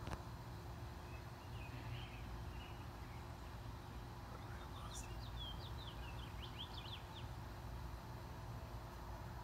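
A songbird sings a short run of quick, high, sweeping chirps about halfway through, after a single faint chirp earlier, over a steady low outdoor rumble.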